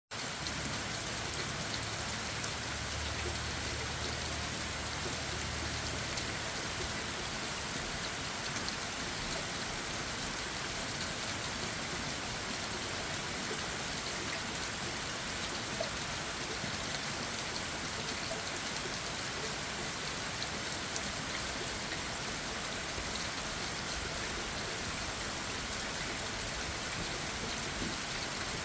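Steady rain falling on leaves and ground, with many small drop taps mixed into an even patter.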